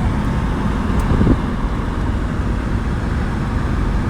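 Steady road and engine noise of a Ram ProMaster van driving along, a low, even rumble.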